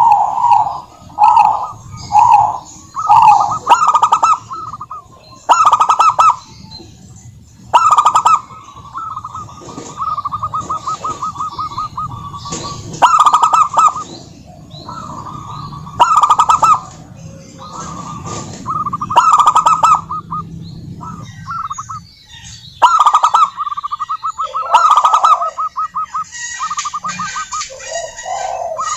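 Zebra dove (perkutut) song: repeated bursts of staccato coos and rapid rolling trills with short gaps between them. A low background hum sits under the calls until about three-quarters of the way through.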